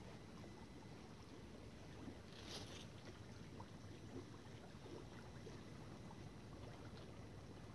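Faint, steady outdoor background noise, with a brief soft hiss about two and a half seconds in.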